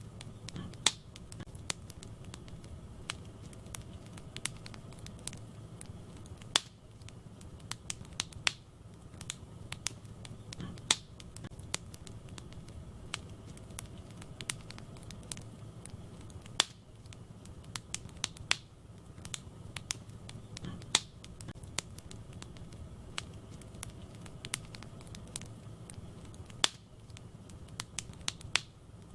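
Wood fire burning in a fireplace, with sharp irregular pops and crackles of the burning wood over a steady low rumble of the flames.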